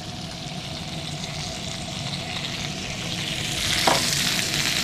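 Food sizzling steadily, a crackling hiss that grows louder over the last second and a half.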